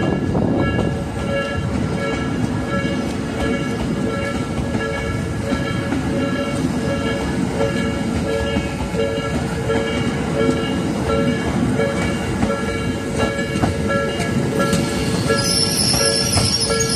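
A level-crossing warning bell rings in a repeating two-tone clang over the rumble and wheel clacks of a Tokyo Metro 13000 series electric train running past. Near the end, a high-pitched wheel squeal sets in.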